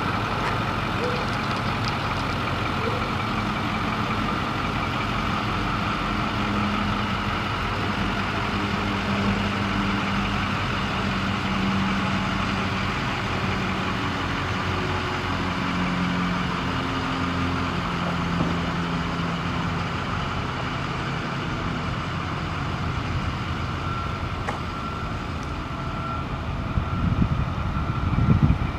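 Ford 6.4L Power Stroke V8 diesel engine running steadily, with a hum that steps in pitch through the first part, and a brief louder surge near the end.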